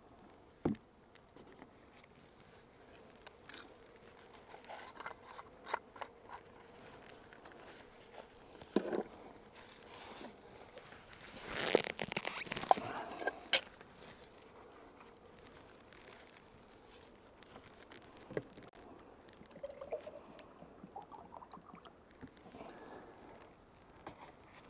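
Beehive equipment being handled: scattered knocks and clicks, with a longer scraping crunch about halfway through.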